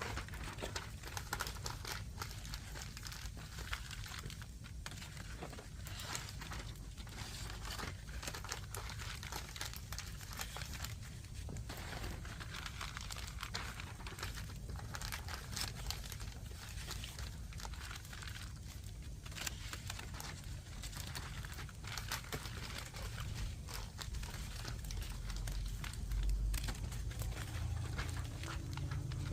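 Firewood fire crackling, a steady stream of small snaps and pops. A low rumble comes in near the end.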